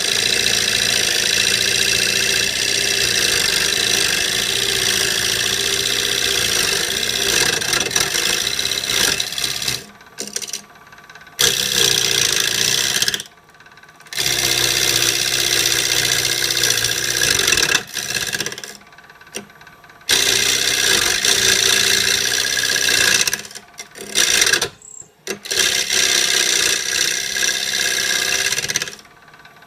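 Wood lathe running while a carbide-tipped turning tool cuts into a spinning piece of oak to round it: a steady motor hum under a loud scraping rush of the cut. The cutting noise breaks off briefly several times.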